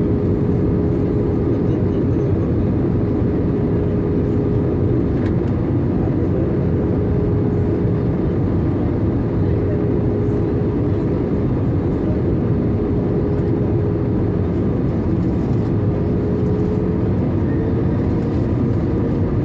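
Airbus A320 cabin noise in flight: a steady, low rush of engine and airflow with a constant hum tone that shifts slightly higher near the end.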